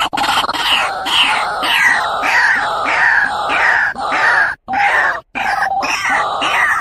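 White-breasted waterhen (ruwak-ruwak) calling: a loud, rapid run of repeated harsh notes, about two a second, broken by a couple of short pauses after the middle.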